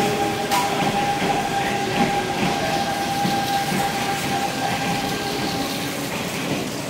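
Kintetsu electric commuter train running along the platform, its wheels clicking over rail joints in a steady rhythm. A steady high tone runs with it and stops about six seconds in.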